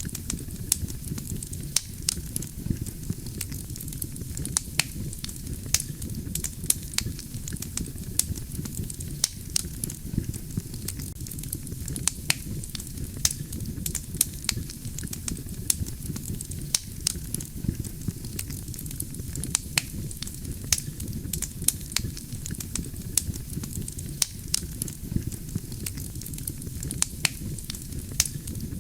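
Wood campfire crackling and popping: sharp snaps come several times a second at irregular intervals over a steady low rush of the burning fire.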